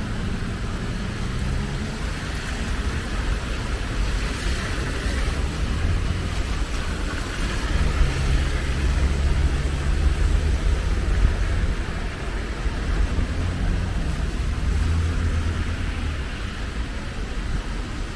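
Road traffic on wet streets: engines hum and tyres hiss as cars pass, swelling and fading a few times, over a deep steady rumble.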